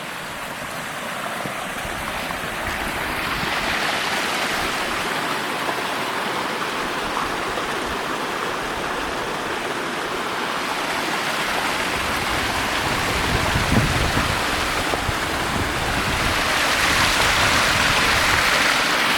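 Rushing stream water, a steady loud hiss that swells and eases, with a brief low rumble a little past the middle.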